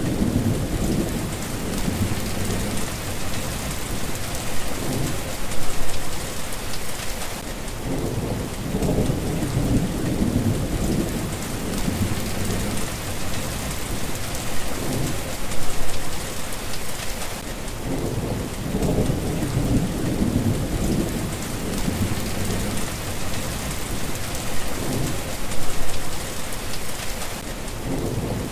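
Steady rain with low, rolling thunder rumbling in several swells that rise and fade.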